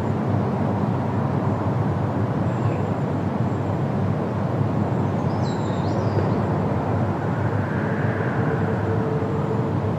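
Steady rushing wind through forest trees, with a single faint bird call about five and a half seconds in.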